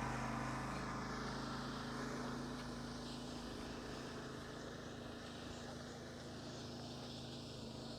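A motor vehicle's engine running at a steady low hum, slowly fading away.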